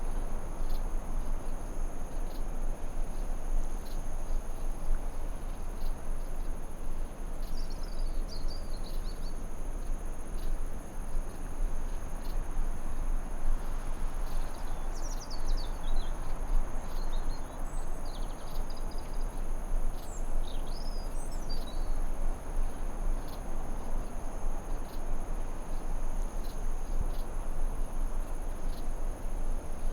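Forest ambience with a steady hiss of white noise and a constant high trill of crickets. A bird chirps in short, quick phrases three times, starting about eight seconds in.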